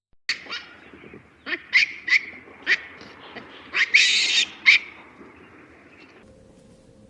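An animal's short, high-pitched calls, about eight in quick succession, with one longer, harsher call about four seconds in.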